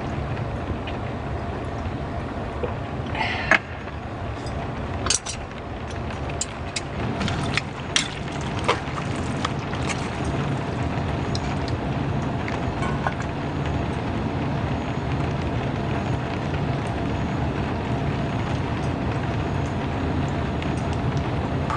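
Heavy rain drumming steadily on a small car's roof, with a few sharp clicks and knocks in the first half.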